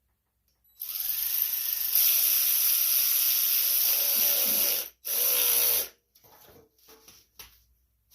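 A handheld power driver runs for about four seconds, stops, then runs again for under a second, tightening fasteners on the engine. A few faint short knocks follow.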